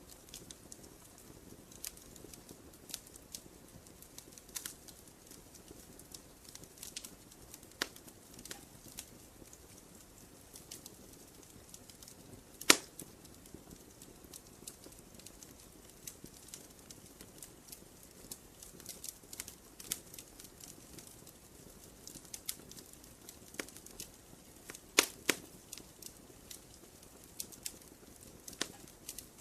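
Wood campfire crackling: a soft hiss under scattered sharp pops and snaps, with one louder pop just under halfway through and a couple more near the end.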